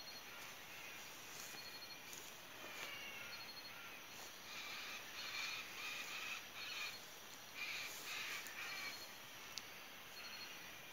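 Faint short bird calls repeating every second or so over a quiet outdoor background.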